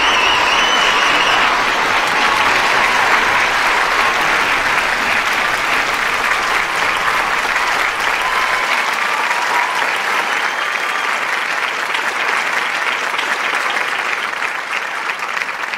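Large audience applauding steadily, with a few whistles and cheers in the first second or two.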